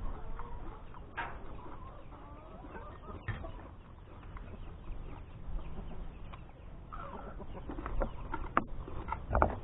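Chickens clucking in short calls, with a few scattered sharp clicks or knocks, the loudest near the end.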